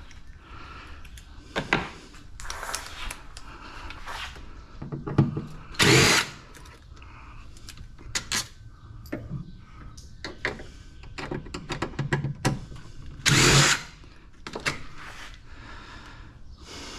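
Hand-held power drill running in short bursts, with two louder runs of about half a second roughly six and thirteen seconds in, amid clicks and knocks of metal parts being handled while an appliance is stripped for scrap.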